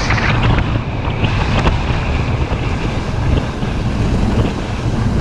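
Wind rushing over the microphone of a moving Suzuki V-Strom motorcycle, with the bike's engine and tyres giving a steady low rumble underneath.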